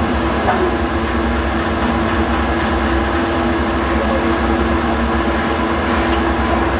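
Machinery running steadily with a low hum and a few steady tones over an even noise, unchanging throughout.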